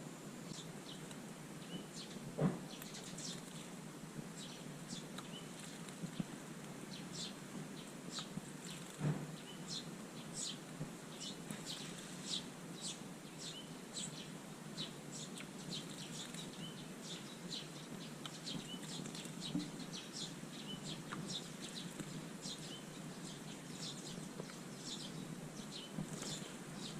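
Eurasian tree sparrows chirping over and over, short high chirps coming several times a second. A couple of soft knocks come about two and a half seconds and nine seconds in.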